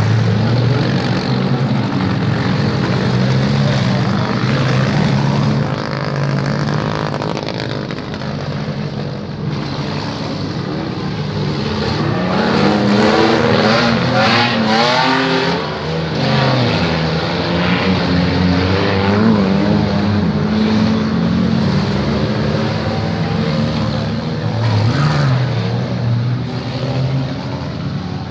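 Demolition-derby car engines running and revving hard, their pitch rising and falling as the cars drive and ram each other, with a few sharp knocks around the middle.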